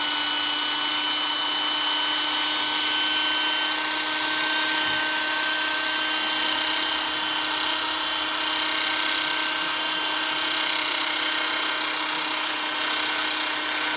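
Electric power tool motor running at a steady speed, a constant whine over a hiss with no let-up.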